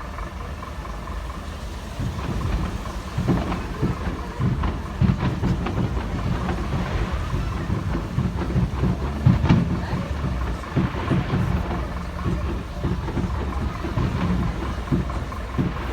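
Fireworks going off: a string of irregular low bangs and thumps over a steady low rumble, starting about two seconds in, with the loudest bangs about five and nine seconds in.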